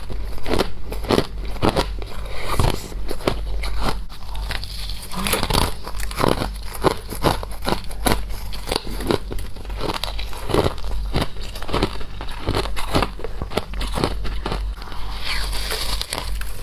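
Close-up crunching and chewing of colored humidifier frost, many sharp, irregular crunches in quick succession, over a steady low hum.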